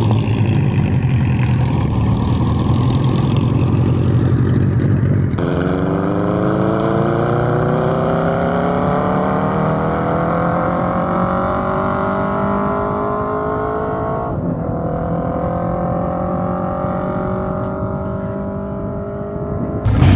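Land-speed streamliner motorcycle's engine running loud at the start, then revving higher and higher as it accelerates away down the course. About fourteen seconds in, the pitch drops at a gear change and climbs again, and the sound slowly fades as the bike pulls away.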